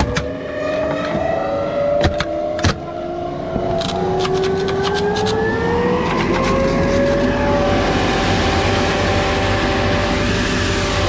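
Pneumatic grain blower being started: its whine rises in pitch as it spins up over the first several seconds, with a few sharp clicks and knocks early on. From about seven seconds in it settles into a steady, loud rush of air.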